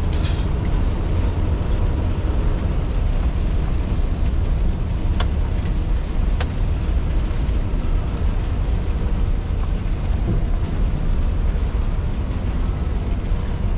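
Scania R620's 16-litre V8 diesel engine running steadily with the truck under way, a constant low drone with road noise over it. Two faint clicks about five and six and a half seconds in.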